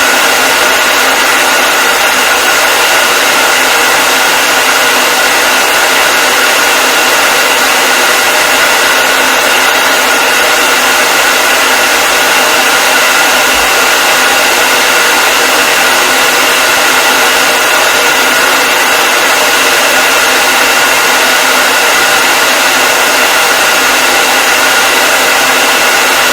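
Electric hair dryer running steadily: a constant rush of blown air with a steady high whine from its motor.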